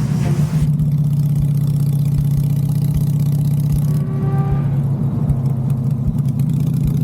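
Harley-Davidson motorcycle's V-twin engine running steadily while riding, a continuous low drone.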